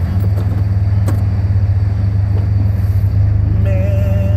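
Old truck's engine running with a steady low drone. A short wavering high tone joins near the end.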